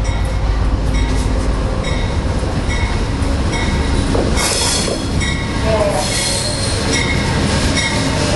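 Amtrak Coast Starlight train standing at the platform: steady low rumble from the diesel locomotive, with a bell-like ding about twice a second and a brief burst of hiss about halfway through.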